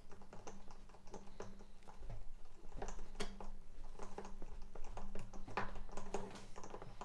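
Hand-cranked string winder turning a tuning machine on a 12-string acoustic guitar, making an uneven run of clicks and rattles as a new string winds onto the post.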